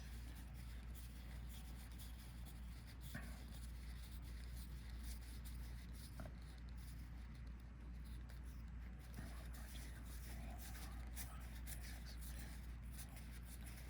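Collectible trading cards being counted out by hand, sliding and ticking softly as they are dealt onto a pile, over a steady low hum.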